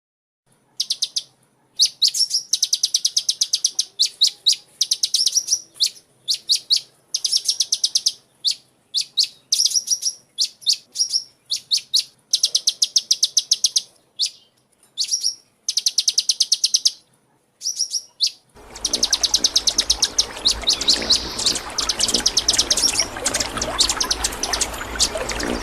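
A small songbird chirping in quick bouts of fast, high, repeated notes, each bout lasting about a second, with short gaps between. About three quarters of the way in, a loud steady hiss comes in under the chirping, which goes on.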